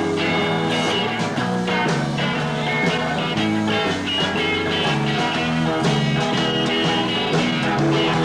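Rock band playing live: electric guitars, bass and drums.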